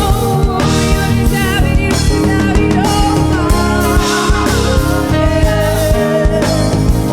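A live band with drums and guitar playing a song while voices sing a wavering melody over it, a full rehearsal run-through.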